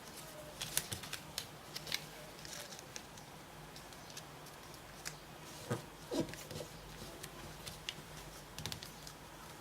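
Sheet of origami paper being folded and creased by hand: scattered crinkles and light clicks, with two louder knocks a little past halfway.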